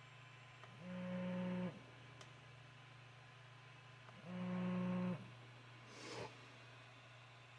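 Stepper motors of a budget 3D printer making two short moves, each a steady whine just under a second long that ramps up at the start, over a low steady hum. A brief rustle follows the second move.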